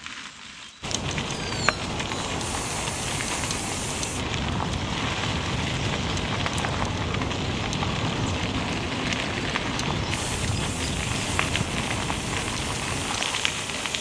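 Bicycle ride at speed: wind rushing over the helmet-mounted camera's microphone with a low rumble, and the tyres crackling over the road surface. The sound comes in abruptly under a second in.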